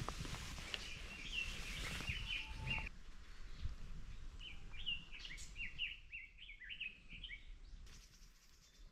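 A songbird singing two short phrases of quick chirping notes, one about a second in and another around the middle, with faint knocks and rustles of handling in the first few seconds.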